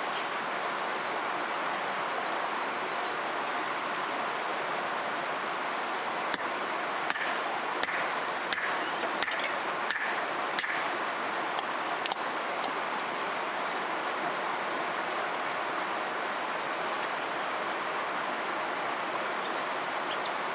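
River water flowing steadily. About a third of the way in comes a scatter of sharp clicks, with a short run of faint chirps among them.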